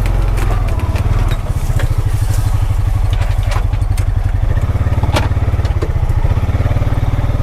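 Honda Pioneer 520 side-by-side's single-cylinder engine running steadily, with scattered sharp knocks and cracks over it.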